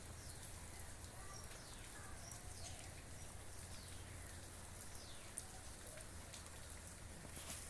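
Steady heavy rain falling, heard faintly as an even hiss over a low steady hum, with a few faint high chirps.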